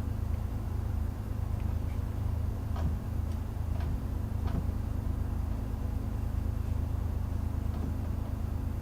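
Metal lathe running with a steady low hum, a few faint ticks in the middle as the cutting tool is brought up to the end of the workpiece to find zero.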